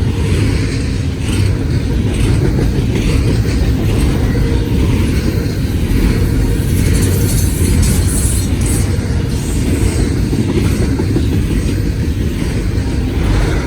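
CSX freight train rolling past at speed: freight cars passing in a loud, steady rumble.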